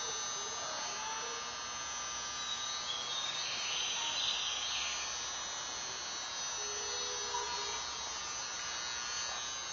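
Steady electrical hum with a thin high whine made of many fixed tones, and a brief hiss about four seconds in.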